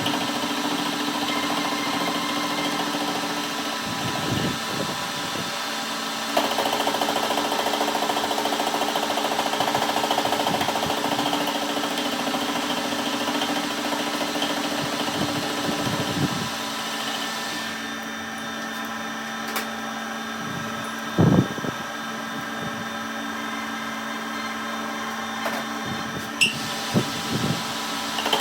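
Shop machine running with a steady, even hum, its tone shifting a couple of times, with a few short knocks near the end.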